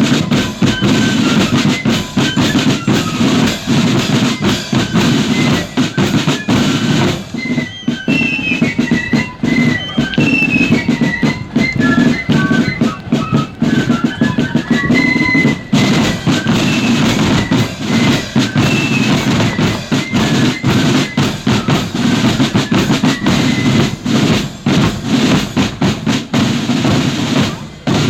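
Marching flute band playing on the march: snare and bass drums beat out a dense, loud rhythm under a high flute melody.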